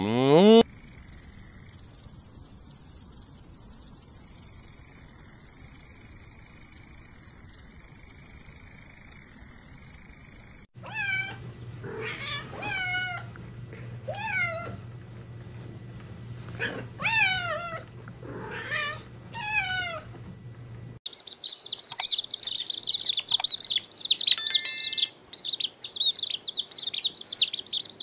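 A steady high-pitched hiss for about ten seconds, then a domestic cat meowing repeatedly, about eight falling meows, then a group of chicks peeping rapidly and continuously, the loudest part.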